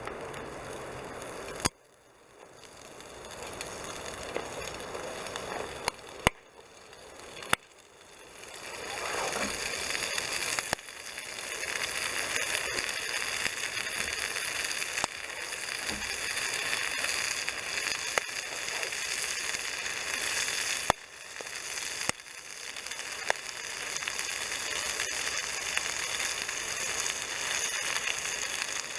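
Wood campfire crackling: a steady hiss with occasional sharp snaps, broken by a few abrupt cuts.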